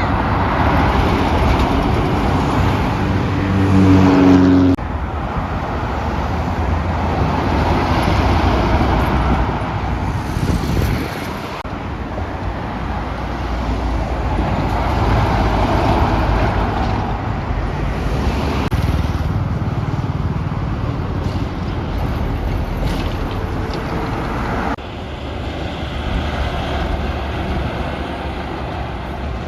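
Heavy trucks driving on a road with steady traffic noise, in several short takes that break off abruptly. A low pitched engine note is held for a few seconds before the first break.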